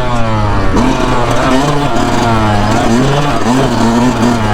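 A 2019 Yamaha YZ125 dirt bike's 125cc two-stroke single-cylinder engine under load, its pitch climbing and falling with the throttle and dropping sharply a little under a second in.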